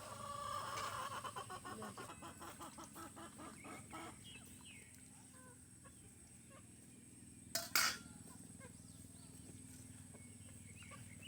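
Chickens clucking, a quick run of clucks in the first few seconds that fades out, with a single sharp knock about three quarters of the way through.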